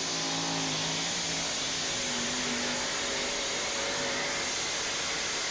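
A truck or tractor pulling vehicle's engine running flat out under load during a pull, loud and steady. Its low engine note is clear at first and then gives way to a dense, noisy rush.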